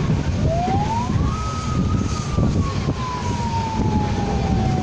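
Steady rumble of a moving passenger train, with a single whistle-like tone that rises quickly about half a second in, then slowly falls over the next four seconds.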